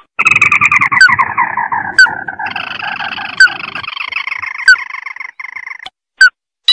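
Red-eyed crake (burung tikusan) calling: a rapid trill that falls in pitch over about two seconds, then runs on as a higher, faster chattering trill until near the end, with a few sharp clicks scattered through it. It is a bird-lure recording of the call.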